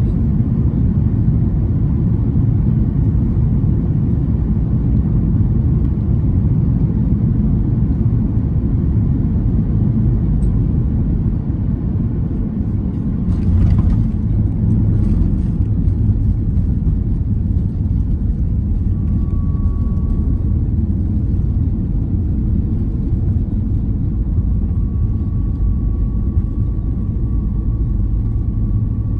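Steady low rumble of a Boeing 737 airliner's engines and airflow, heard inside the passenger cabin during the landing approach. About thirteen seconds in there is a brief louder rushing sound, and a faint steady high whine comes in later.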